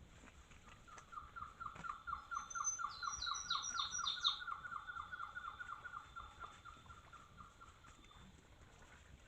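Two wild birds calling: one gives a long, even run of repeated notes, about four or five a second, that fades out near the end, while a second bird puts in a quick series of about five higher notes partway through.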